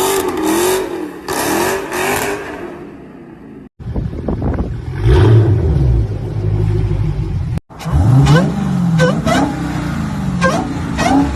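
Supercharged Dodge Challenger V8 revving hard up and down over and over, in three short clips joined by abrupt cuts; in the last clip each rev rises sharply with a high whine climbing along with it.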